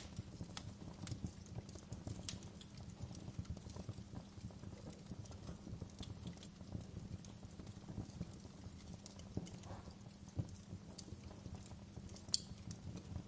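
Fire crackling, with irregular sharp pops and snaps over a steady low rumble of burning; one pop about twelve seconds in is louder than the rest.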